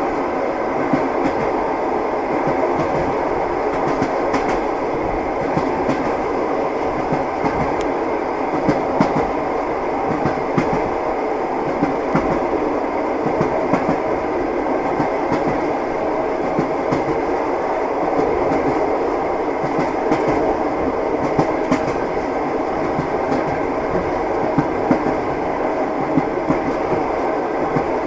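Train running steadily, heard from inside a compartment: a continuous rumble with the clickety-clack of wheels over rail joints.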